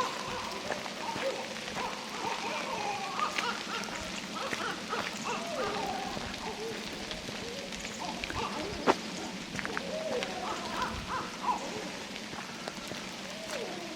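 Steady rain falling in a redwood forest, with drops pattering and dripping close by and a sharp tap about nine seconds in.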